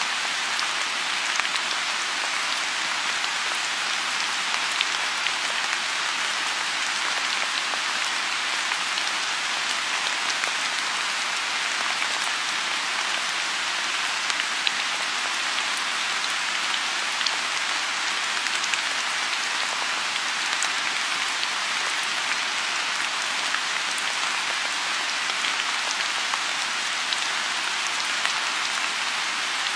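Steady rain falling on a lotus pond: an even hiss with scattered individual drops ticking through it.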